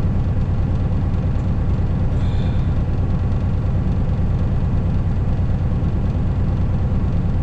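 Heavy diesel truck engine running steadily, a deep even rumble with a fast regular pulse.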